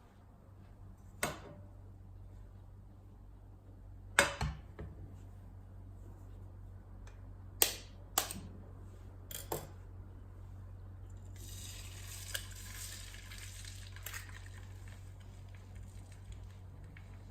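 Dishes and cutlery clinking and knocking in a kitchen: a few sharp strikes spread over the first ten seconds. About eleven seconds in, a steady hiss starts and runs on.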